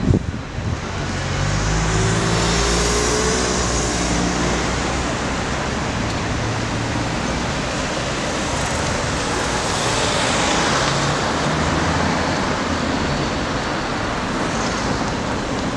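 City street traffic: steady roadway noise with a vehicle's engine running low in the first few seconds and another vehicle passing near the middle.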